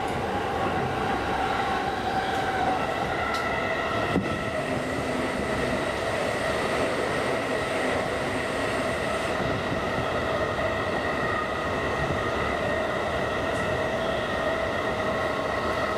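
JR East Tokaido Line commuter train running between stations, heard inside the passenger car: steady running noise of wheels on rails with a held whine from the drive, its lowest note dipping slightly in the first few seconds.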